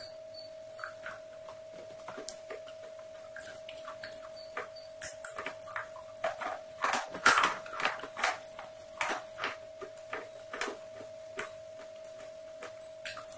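Close-miked chewing of crispy fried chicken: scattered crunches and mouth clicks that grow denser and louder from about six seconds in, over a steady faint hum.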